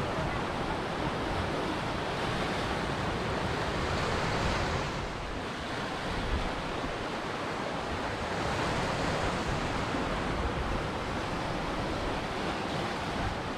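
Ocean surf: a continuous rush of breaking and washing waves, which eases briefly about five seconds in and swells again a few seconds later.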